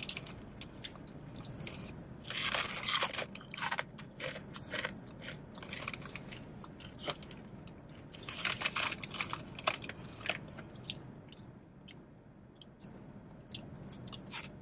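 Potato chips being bitten and chewed close to the microphone: crisp crunching that comes in bouts, the densest about two seconds in and again around eight and a half seconds, with single crackles between.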